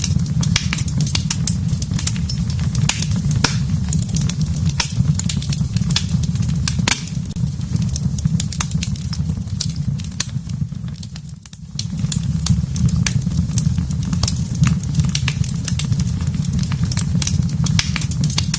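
Fire burning in a fireplace: many sharp crackles and pops over a steady low rumble, dropping briefly quieter about eleven seconds in.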